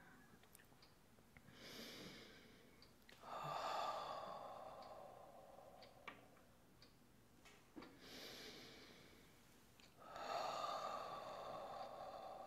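A woman's voice making long, breathy sighing exhalations, four in a row, each swelling quickly and then fading away with a slight downward slide.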